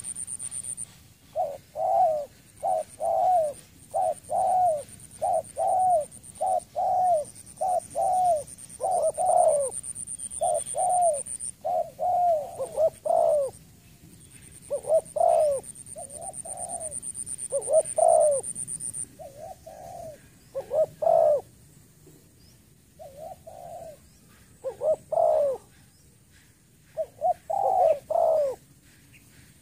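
Spotted dove cooing over and over, a long series of short low coo notes in groups with brief pauses between phrases. A steady high-pitched whine comes and goes behind it.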